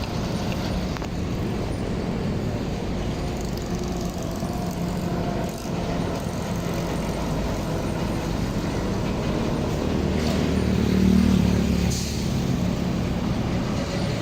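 Truck engine running with traffic noise, swelling louder about ten seconds in, with a short hiss near the end.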